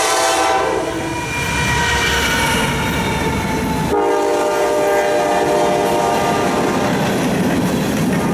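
Freight train locomotive sounding its multi-chime air horn while passing, over the rumble and clatter of wheels on the rails. One horn chord ends about half a second in and trails off, and a second long blast starts about four seconds in and runs nearly to the end.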